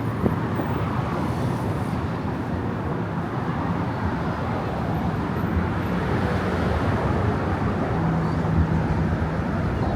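Steady road traffic noise from cars on the bridge's roadway, with a short low engine hum about eight seconds in.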